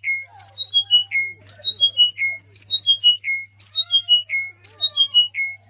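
A bird calling: a quick run of about five whistled notes stepping down in pitch, repeated about once a second with a steady low hum underneath.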